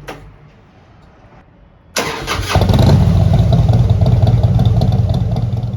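Harley-Davidson motorcycle's V-twin engine starting about two seconds in and running loudly with a fast, low pulsing beat.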